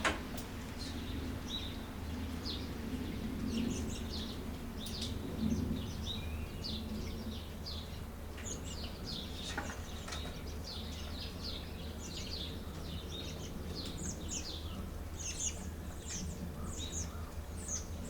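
Small birds chirping, many short quick calls one after another, over a low steady hum.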